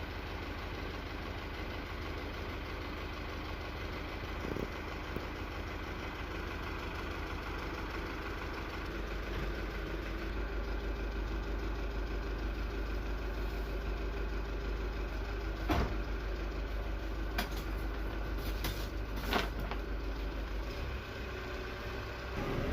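Steady low mechanical hum of an idling engine or similar machine, with a few short clicks scattered through it.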